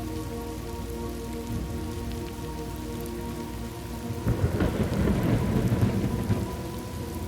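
Steady rain falling, with a roll of thunder rumbling in about four seconds in and fading after about two seconds.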